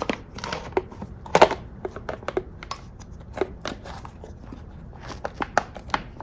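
Subaru STI oil dipstick tube being worked down into place on the engine: a series of irregular light clicks and knocks, the loudest about one and a half seconds in.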